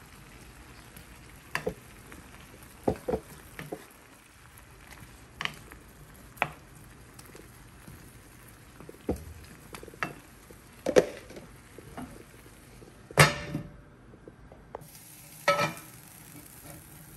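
Shrimp sizzling in a pot with a steady low hiss, while a utensil knocks and clinks against the pot every second or two. The hiss drops out for about a second two-thirds of the way through.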